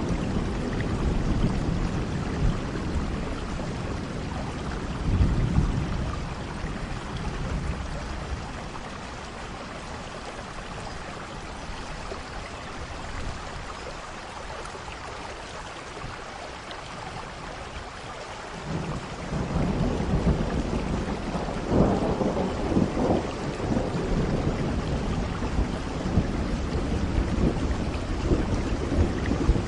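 Steady rain with soft rolling thunder. The rumble fades into a quieter stretch of plain rain in the middle and swells again about two-thirds of the way in.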